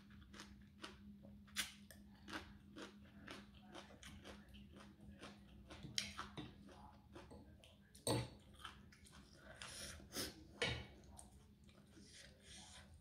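Close-up chewing of a mouthful of rice noodles in curry sauce, wet mouth sounds, mixed with clinks and scrapes of a metal fork and spoon against a ceramic plate. Sharper clicks come about a second and a half in, around six seconds, around eight seconds and near ten and a half seconds.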